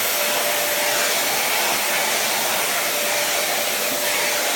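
Vacuum cleaner running steadily, an even rushing hiss with a faint steady whine, as it is run over a cat's fur.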